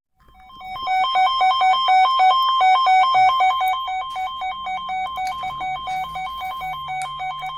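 Weather radio alert alarm sounding for an incoming winter storm warning: two electronic tones beeping in rapid alternation, high and low. It fades in over the first second, gets somewhat quieter about four seconds in, and cuts off at the end.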